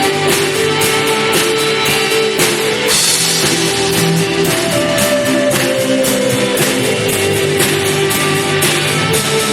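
Live rock band playing an instrumental passage on drum kit and guitars, with steady drum beats and a cymbal crash about three seconds in.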